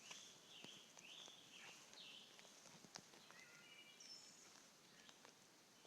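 Faint bird song: a run of short whistled phrases, some dipping and rising in pitch, with a higher note about four seconds in. A few soft clicks, the sharpest about halfway through.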